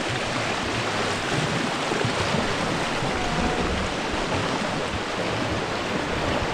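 Steady rush of fast-flowing river water around a rafting boat.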